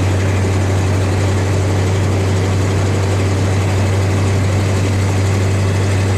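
Farm truck engine running steadily in top gear, heard from inside the cab as an even, unchanging low drone with road and cab noise over it.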